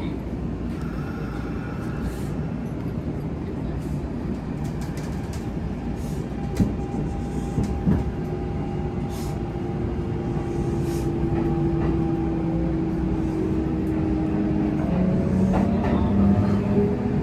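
Kintetsu electric train running, its Hitachi GTO VVVF inverter and traction motors whining in thin tones over a steady wheel rumble. One tone sinks slowly through the middle, new rising tones come in near the end as the sound grows louder, and there are two sharp knocks from the track about six and eight seconds in.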